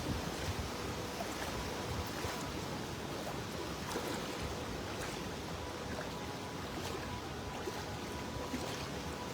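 Steady rushing of hurricane wind and storm-surge floodwater, with scattered light splashes and a faint steady tone underneath.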